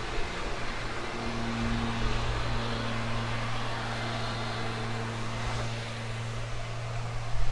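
Electric unicycle riding along: a steady low hum under a constant rush of wind and tyre noise, with a short bump near the end.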